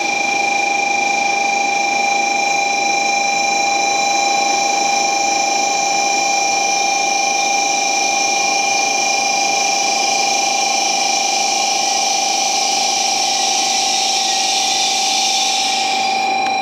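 N700S Shinkansen train standing at the platform, its onboard equipment giving a steady electrical whine of several held tones over a hiss. The hiss dies away near the end.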